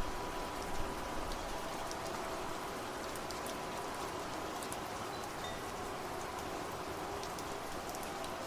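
Steady rain with fine drop ticks, and wind chimes ringing lightly over it, their tones fading away in the first few seconds.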